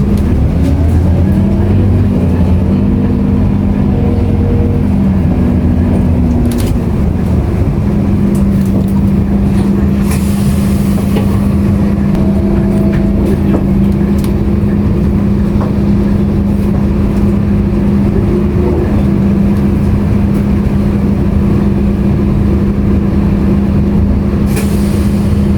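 Scania K230UB single-deck bus heard from inside the saloon: engine and drivetrain pulling with rising pitch in the first seconds, dropping back around six seconds in, then running at a steady, even hum with a constant whine. A few brief rattles and knocks come from the body.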